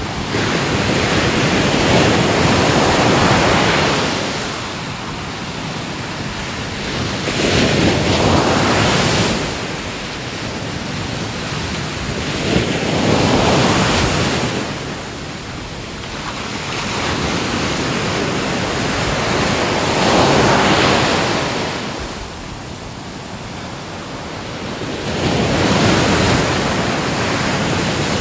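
Ocean waves breaking on a shore: the rush of surf swells and fades in a slow, regular cycle, about five waves, each several seconds apart.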